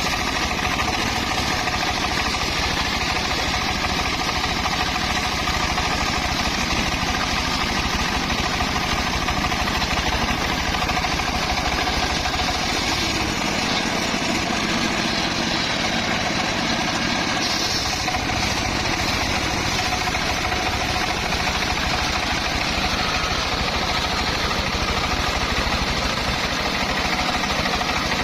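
Circular saw rig running steadily with an engine drone.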